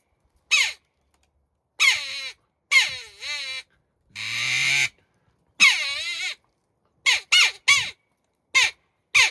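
JPPCalls JD jackdaw call, a mouth-blown game call, blown hard and fast to imitate a jackdaw. It gives a string of short pitched calls, most falling in pitch: a few longer wavering calls and one rougher, raspier one, then a quick run of short notes near the end.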